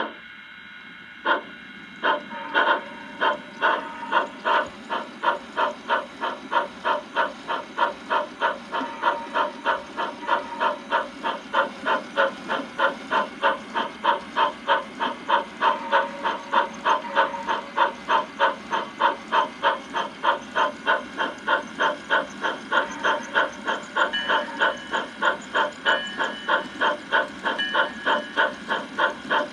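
Bachmann 4-6-0 model steam locomotive's sound system chuffing as it gets under way. The exhaust beats start slow and quicken within the first few seconds to a steady beat of about two a second.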